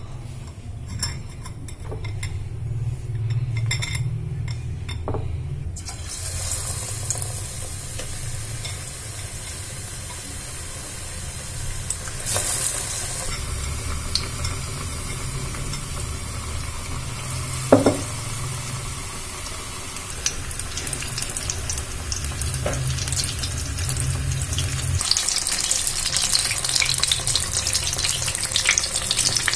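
Batter-coated paneer pakoras sizzling as they deep-fry in hot oil. The sizzle starts suddenly about six seconds in and grows louder near the end. Before it come a few soft clicks while paneer is dipped in gram-flour batter, and a single sharp knock comes about eighteen seconds in, all over a low steady hum.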